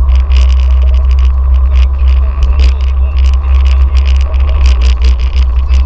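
Toyota AE86 Sprinter Trueno making irregular clicks and creaks, the abnormal noise that appears whenever the steering wheel is turned, over a loud low rumble.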